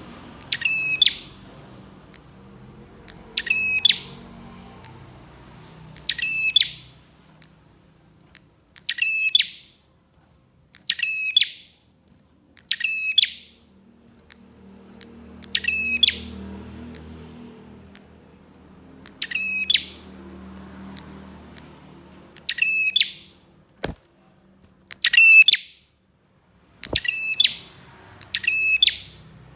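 Prenjak (bar-winged prinia) calling: a loud, sharp, chattering call repeated about every two to three seconds, around a dozen times, played as a lure call to attract wild prenjak.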